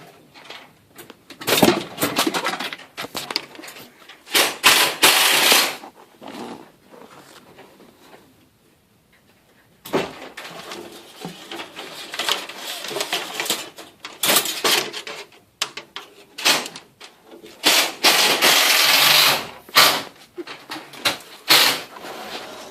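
Irregular clattering, scraping and rustling of tools and metal parts being handled, in uneven bursts with a nearly quiet pause near the middle.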